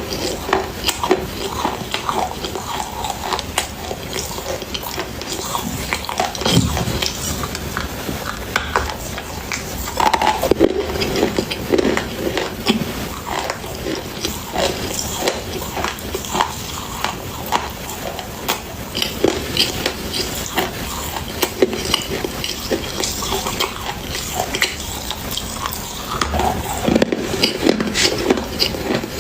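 Continuous crunching while eating: a dense stream of short, crisp cracks and bites with chewing in between.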